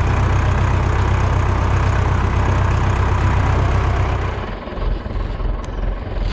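Farm tractor engine idling with a steady low hum, which drops away suddenly about four seconds in.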